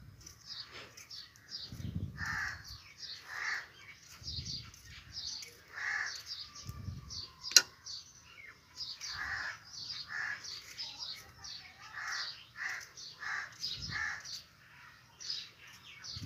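Birds calling: repeated separate lower calls with quicker high chirps throughout. One sharp click, a little past halfway, is the loudest sound.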